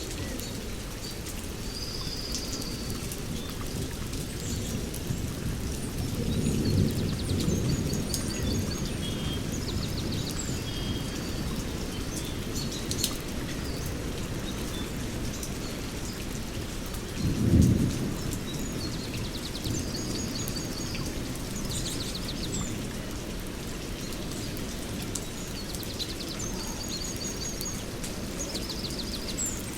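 Songbirds chirping and trilling again and again over a steady low rushing background. There is a low rumble of thunder about 7 s in and a louder, shorter one about 17 s in.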